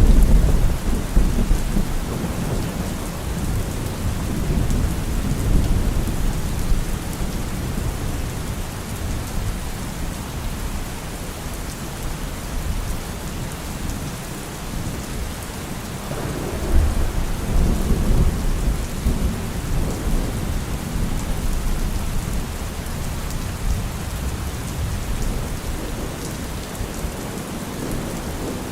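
Steady rain with rolling thunder. A deep rumble is dying away over the first several seconds, and another rolls in about halfway through and fades.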